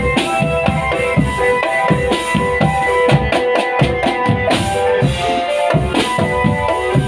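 Marching drum band playing: bass and snare drums beat a steady, driving rhythm under a melody of held, pitched notes.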